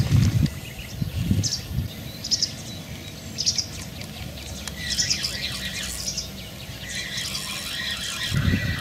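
Small birds chirping in short high bursts of a few notes, roughly once a second, growing busier after about five seconds.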